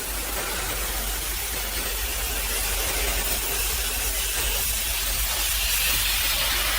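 High-pressure washer spraying water onto a truck, a steady hiss over a low pump hum.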